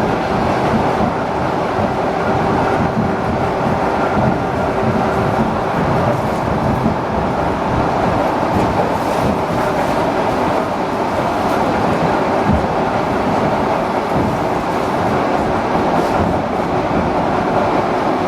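ED4M electric multiple-unit train running between stations, heard from inside the carriage: a steady, unbroken noise of wheels on rails and running gear.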